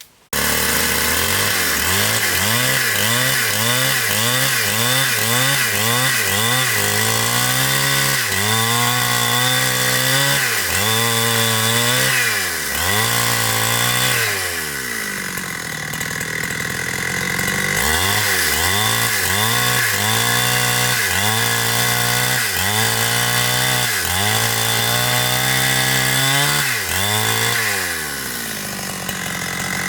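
Two-stroke chainsaw cutting into wood. The engine speed rises and falls over and over as the chain bites and bogs in the cut, and twice it drops back toward a lower speed for a few seconds. It starts abruptly.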